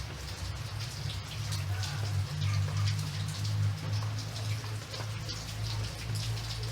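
Steady rain, with separate drops heard hitting a surface over a constant hiss, and a steady low rumble underneath.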